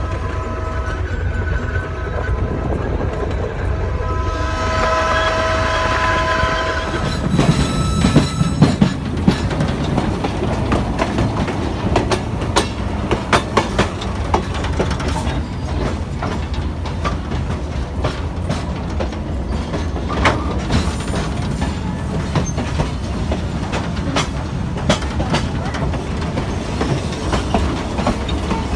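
Model train running on a layout's track, its wheels clicking over the rail joints over a steady low hum. Held horn-like tones sound during roughly the first seven seconds.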